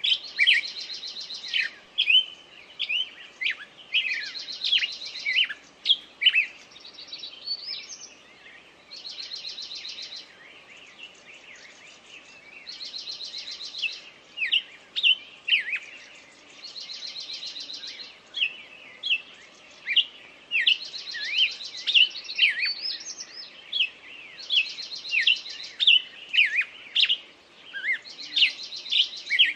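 Several songbirds singing: one repeats a short buzzy trill lasting about a second, roughly every four seconds, while others give many quick chirps and sweeping notes between.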